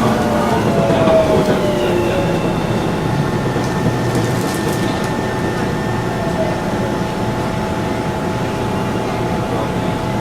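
Tobu 30000 series electric train running, heard from inside: the Hitachi IGBT VVVF inverter whine falls in pitch over the first couple of seconds, then holds as steady tones over the wheel-and-rail rumble, which grows gradually quieter.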